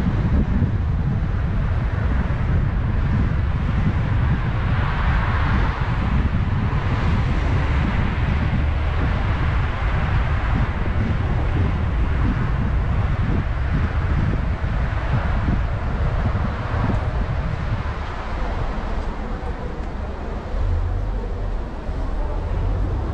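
A car driving on the road: a steady rumble of tyres and engine, with wind buffeting the microphone. It eases slightly about eighteen seconds in.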